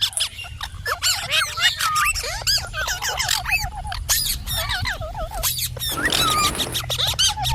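Indian ringneck parakeet chattering: a rapid run of chirps and whistles sliding up and down in pitch, with a short harsh rasping call about six seconds in.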